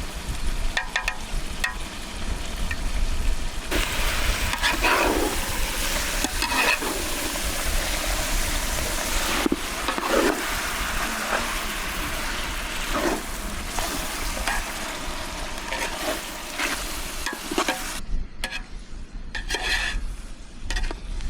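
Food sizzling over an open cooking fire: a steady hiss with scattered clicks and knocks. The hiss changes abruptly twice, a few seconds in and near the end.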